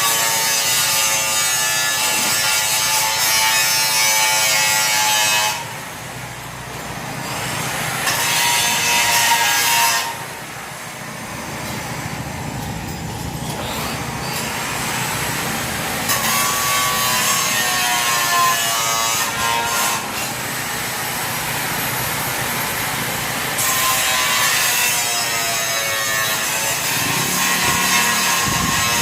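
Power tool cutting, with a high whine that wavers in pitch as it works under load, easing off twice in the first third before cutting on steadily.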